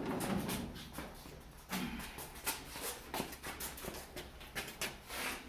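Irregular footsteps, scuffs and light knocks as a pickup truck bed is carried and set down by hand.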